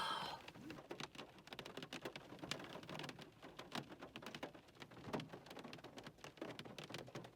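Rain falling, a faint irregular patter of drops.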